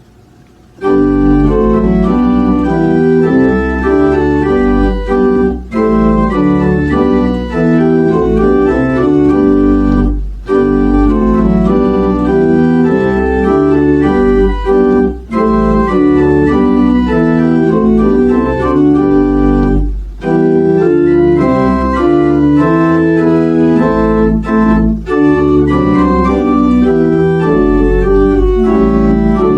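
Organ playing held chords over a deep bass line, starting about a second in, with short breaks between phrases.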